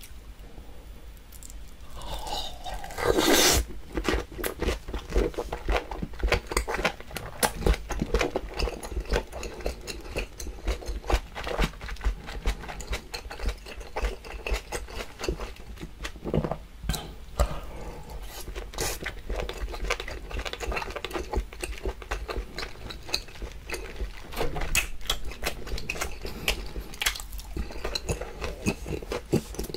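Close-miked chewing of seared wagyu beef steak and red bell pepper: a steady run of wet mouth clicks and smacks. A louder drawn-in sound comes about three seconds in as the bite goes into the mouth.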